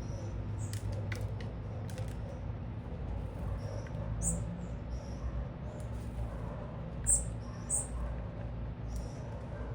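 Small birds giving short, high-pitched chirps a few seconds apart, over a steady low city rumble.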